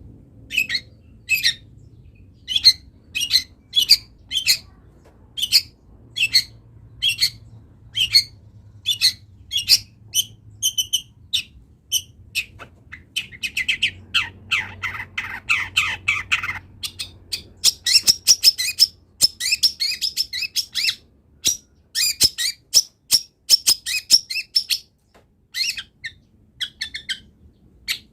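Long-tailed shrike (cendet) singing loudly: short, sharp high calls in quick succession, then a harsh, scratchy passage about halfway through, then fast, varied chattering.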